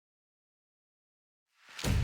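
Silence, then about a second and a half in a brief rising noise and a deep hit as orchestral background music begins.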